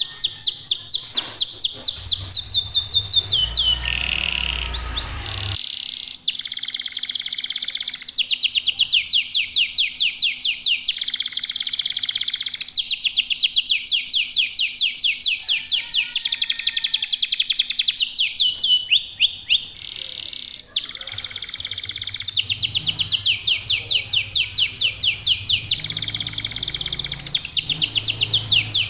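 Domestic canaries singing long, fast, high-pitched trills in runs of a few seconds, one run following another with short breaks. A low rumble sounds under the song for a few seconds near the start.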